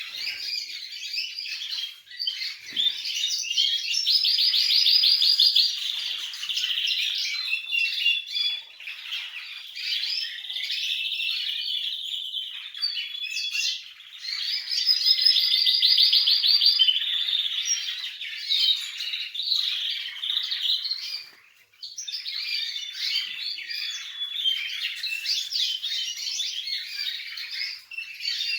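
Spanish timbrado canary singing: a continuous, varied song of chirps and whistles, twice breaking into a long rapid rolling trill, with a short pause about three-quarters of the way through.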